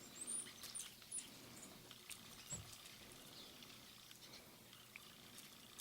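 Faint feeder sounds: a few short, very high bird chirps in the first second or so, then scattered light taps like a woodpecker pecking at seeds.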